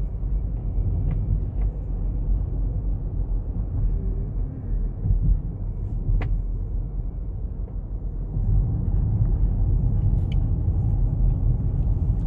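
Car driving, heard from inside the cabin: a steady low rumble of road and engine noise that grows louder about eight seconds in, with one sharp click near the middle.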